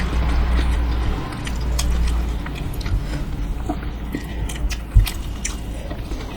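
Close-miked chewing and biting of dosa, with many short, sharp mouth clicks and crunches. A low rumble sits under the first couple of seconds, and a single thump comes about five seconds in.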